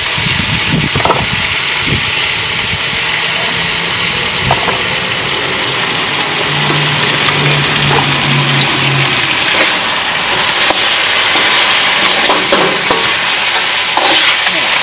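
Dungeness crab pieces sizzling in hot oil in a wok, a steady loud hiss with small crackles and knocks. Near the end a spatula tosses the crab through the oil.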